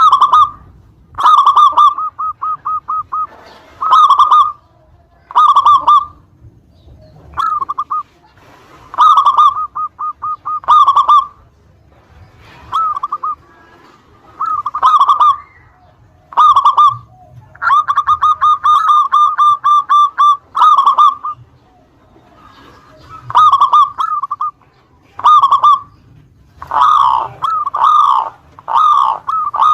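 Local perkutut (zebra dove) cooing in repeated short bursts of rapid staccato notes, separated by brief pauses. About 18 seconds in comes one longer run of notes, and near the end the phrases come closer together.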